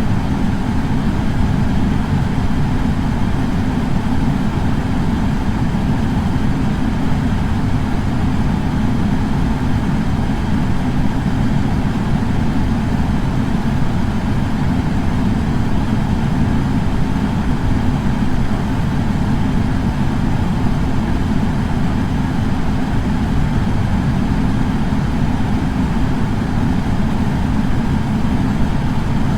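Air purifier fan running steadily: an even noise that is heaviest in the low end, with a fainter hiss above, and no change throughout.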